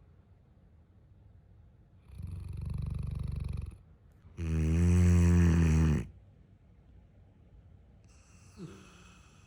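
Neapolitan mastiff snoring in deep sleep. A softer, rough breath comes about two seconds in, then a loud, pitched snore lasting about a second and a half, with quiet pauses between breaths.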